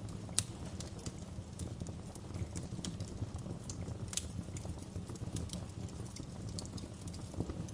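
Fire in a fireplace crackling: irregular sharp pops and snaps over a steady low rumble. The two loudest pops come just after the start and about four seconds in.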